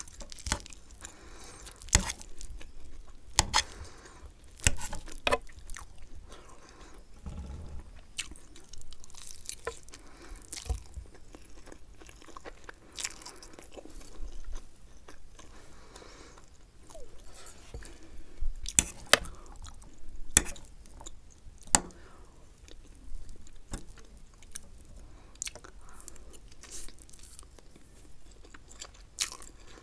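Close-miked wet chewing of Maggi instant noodles and fried egg, with many irregular sharp clicks and smacks.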